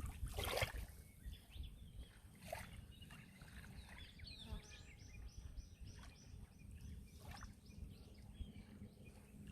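Gentle sea waves lapping over a low steady rumble, with soft splashes about half a second, two and a half and seven seconds in. Around the middle, a bird gives a quick run of short high chirps.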